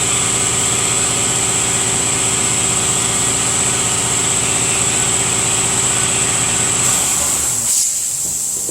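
Shop air compressor running steadily, then shutting off about seven seconds in, followed by a short burst of hissing air.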